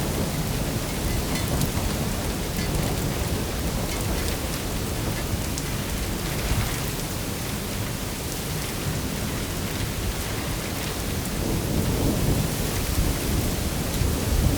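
Heavy rain pouring down in strong wind: a steady rushing noise with a deep rumble underneath, swelling a little near the end.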